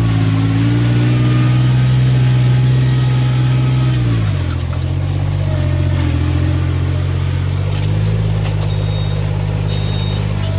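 A farm machine's engine running steadily. Its pitch drops sharply about four seconds in, as it slows down, and climbs slowly back near the end.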